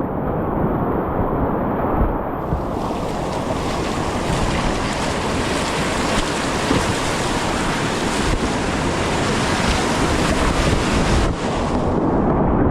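Whitewater rapids rushing steadily, a dense continuous wash of water noise with wind buffeting the microphone.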